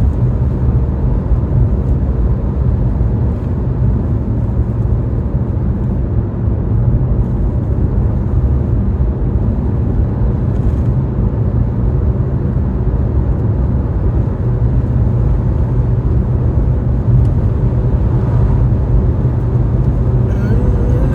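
A car driving, with a steady low rumble of road, engine and wind noise.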